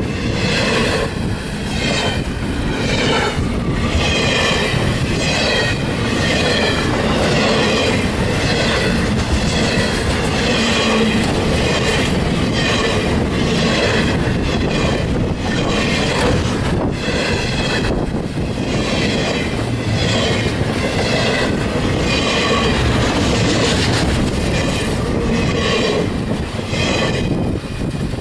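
Railroad cars rolling past close by, the wheels clacking over rail joints in a steady rhythm, with a wavering metallic squeal from the wheels on the rail.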